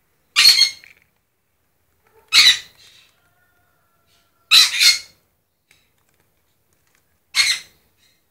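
A bird's loud, harsh squawks: four short calls about two seconds apart, the third one doubled.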